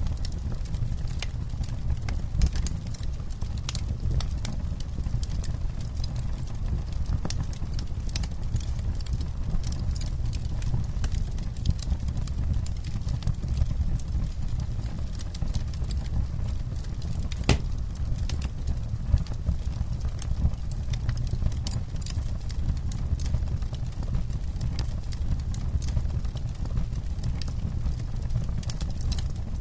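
Wood campfire crackling: scattered sharp pops and snaps over a low, steady rumble, with one louder pop a little past halfway.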